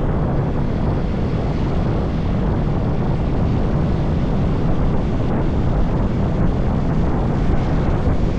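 Steady wind rush and road noise from a motorbike riding at speed, heaviest low down, with no single event standing out.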